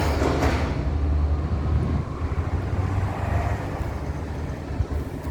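Diesel engine of a Volvo 500 truck running with a steady low rumble, a little louder at the start and easing slightly after about two seconds.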